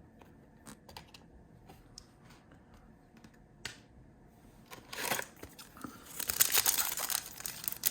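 A few faint clicks of cards being handled, then from about five seconds in a loud crinkling and tearing as a foil trading-card pack wrapper is ripped open and crumpled.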